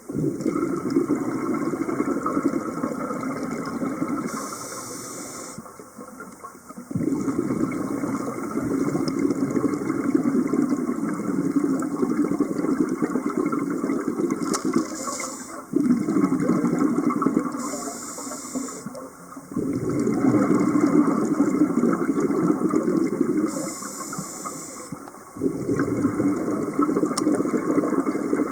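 Scuba diver breathing through a regulator underwater: five long bursts of exhaled bubbles, each broken by a short hissing inhalation.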